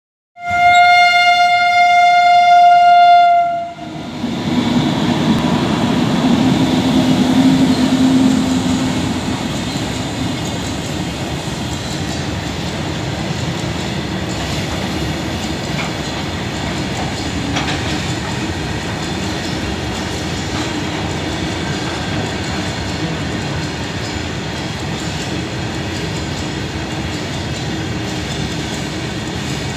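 A freight train's locomotive sounds one long horn blast of about three seconds. The train then passes close by with a steady rumble and clatter of its wagons over the rails.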